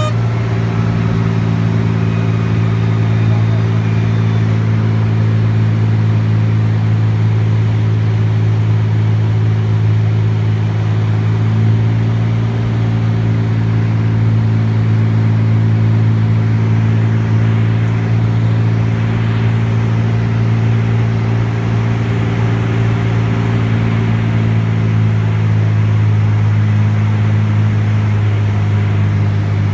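T-34 Mentor's six-cylinder piston engine and propeller running steadily in flight, a constant drone.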